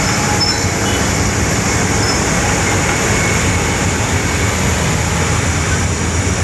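Heavy road-works machinery running steadily and loudly, with most of its sound low down under a hiss.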